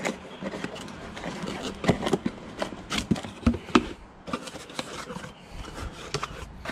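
Handling noise: an irregular run of clicks, knocks, scrapes and rustles as items are taken out of the fridge's accessories box.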